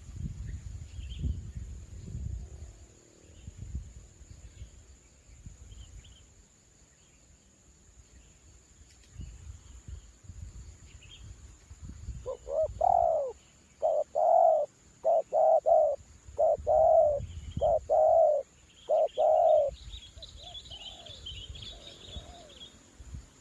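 A spotted dove (terkukur) cooing: a run of about nine separate coo notes starting about halfway through, each rising then falling in pitch. Wind rumbles on the microphone in the first half, and small birds chirp faintly near the end.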